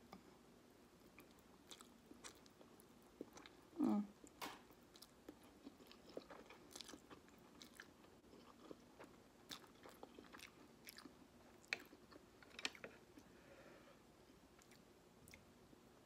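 A person eating a mouthful of instant ramen noodles close to the microphone: soft, wet chewing with small mouth clicks. A short vocal sound comes about four seconds in.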